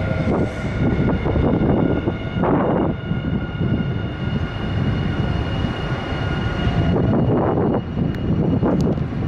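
Nankai electric commuter train moving along the station platform: a loud, continuous rumble of wheels and traction motors that swells and eases.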